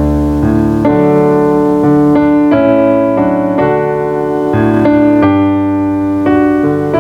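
Instrumental keyboard music, piano-like, playing slow held chords that change about once a second.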